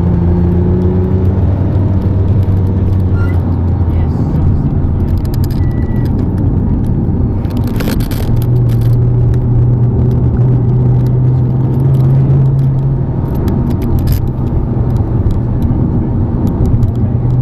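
Sports car engine heard from inside the cabin on a race track, pulling under load, its note dropping about four seconds in as the throttle is eased for a corner and coming back and climbing again a few seconds later, over constant road and wind noise.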